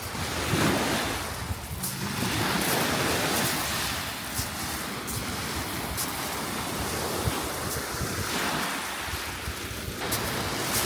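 Sea waves breaking and washing on the shore, with a louder surge about a second in, and wind on the microphone.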